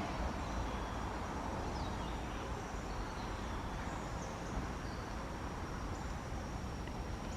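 Forest ambience: a steady high insect drone over an even background hiss, with a few faint, brief bird chirps.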